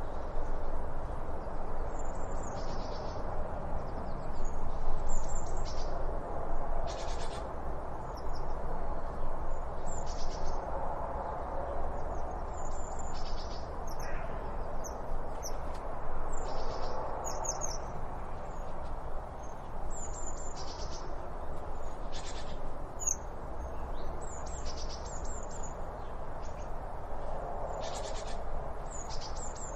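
Songbirds chirping, with short high chirps and quick downward-sweeping calls coming every second or so, over a steady background hiss and low rumble.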